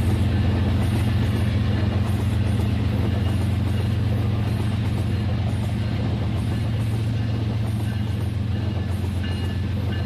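Toy train running steadily on its track, its small electric motor humming, with faint light ticks about once a second.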